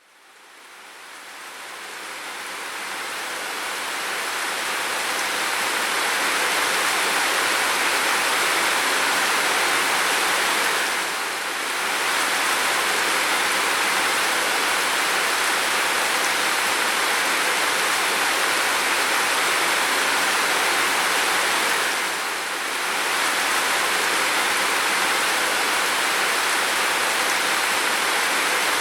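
Steady heavy rain, a dense even hiss. It fades in over the first few seconds and dips briefly in level about 11 and 22 seconds in.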